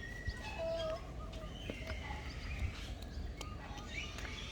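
Several birds calling at once: short chirps and whistled notes, some held briefly, overlapping over a steady background hum.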